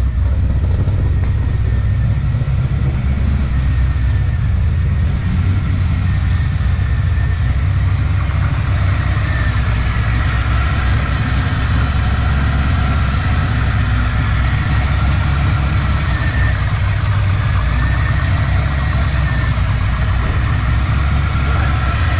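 LS V8 engine running steadily through a newly built exhaust with aftermarket headers, a deep, even drone.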